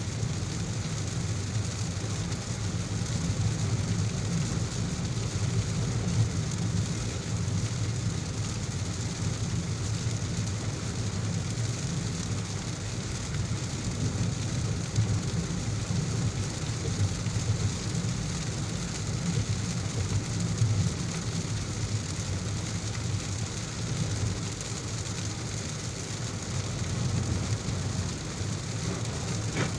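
Heavy rain falling steadily, with a continuous low rumble beneath it.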